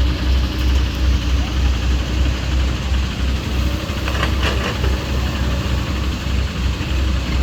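Diesel tractor engine running steadily with a deep, evenly pulsing low throb. A short burst of higher-pitched noise comes about four seconds in.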